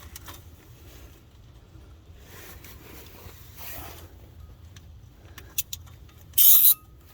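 Hand tools on a bolt: a few faint metallic clicks about five and a half seconds in, then a short, loud rasp near the end, typical of a ratchet or torque wrench being worked, over a low steady rumble.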